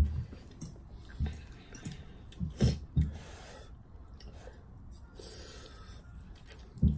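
Eating sounds: chewing, with a few short dull knocks.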